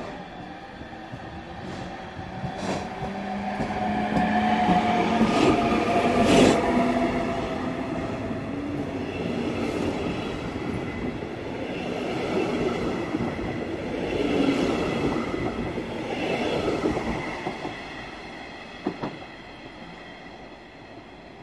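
Red DB double-deck regional train passing along the platform. It grows louder over the first few seconds with a steady hum. The coaches then roll past with wheel clatter and sharp clicks, and the sound fades away over the last few seconds as the train moves off.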